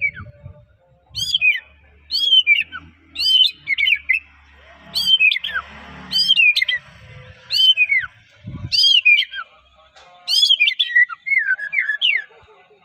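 White-rumped shama (murai batu) singing: loud whistled phrases about once a second, each sweeping down in pitch, with quick chattering notes in between.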